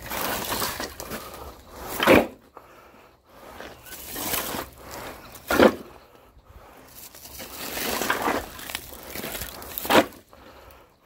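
Firewood being handled: three hard wooden impacts spaced about three and a half seconds apart, each after a second or so of rustling and scraping.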